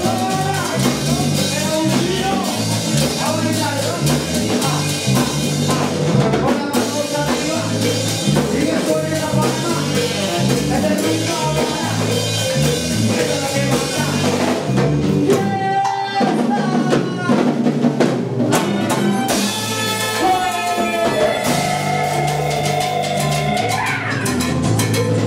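Dance band playing its instrumental intro: drum kit and percussion keep a steady beat under sustained melody instruments, with a short break about sixteen seconds in.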